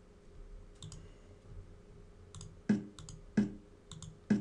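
Computer mouse clicks as moves are made in a fast online chess game, sharp paired clicks here and there, with three louder clacks in the second half about two-thirds of a second apart.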